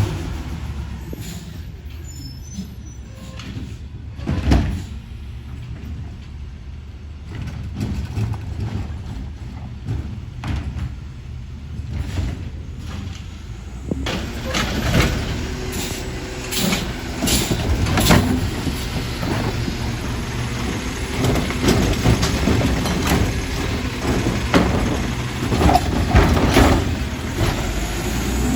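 Garbage truck running with a steady low engine rumble and scattered clanks and knocks, which come thicker and louder in the second half.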